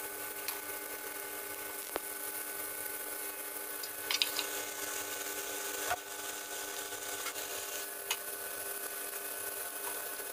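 Shrimp, squid and chillies sizzling faintly and steadily in a stainless-steel wok, over a steady low hum. A few light metal clicks and clinks sound on top: one about two seconds in, a quick cluster about four seconds in, and single ones near six and eight seconds.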